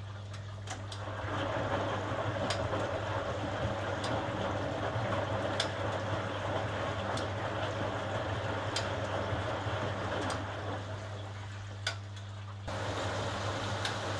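HUWA Automatic Standard 4 washing machine running. A steady hum sits under a rushing, watery noise with scattered light clicks. The rushing eases off about ten seconds in and comes back abruptly near the end.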